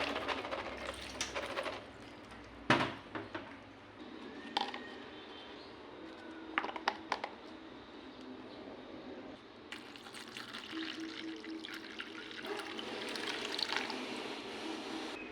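Tap water running and pouring into a bowl, with a few sharp knocks in the middle; the water sound fades, then builds again near the end.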